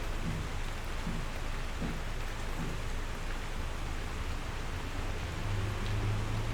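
Steady rain falling against a window, with a low rumble swelling near the end.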